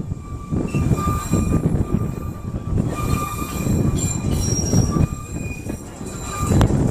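Narrow-gauge sightseeing train rolling along, heard from its open-air carriage: a steady rumble of wheels on track, with thin high wheel squeals coming and going and a sharp click near the end.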